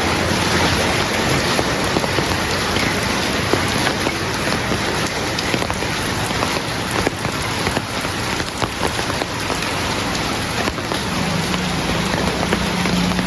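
Heavy rain falling steadily, with many separate drops ticking on a hard surface. A low steady hum comes in near the end.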